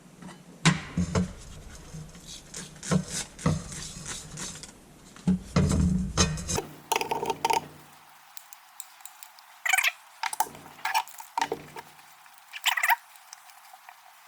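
Irregular metal clinks, knocks and clatter as the parts of an old Coleman lantern are handled and set down, in uneven bunches rather than a steady rhythm.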